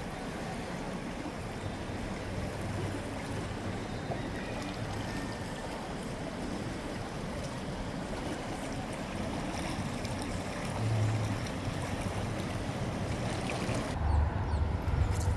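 River water flowing steadily, an even rushing. Near the end a louder low rumble comes in.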